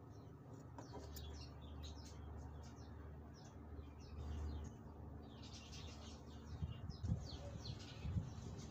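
Small birds chirping over and over, above a steady low rumble, with a few irregular low knocks in the last couple of seconds.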